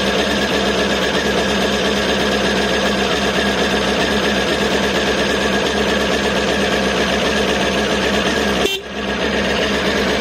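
Honda CBR954RR's inline-four engine idling steadily, with a brief drop-out and recovery of the sound about nine seconds in.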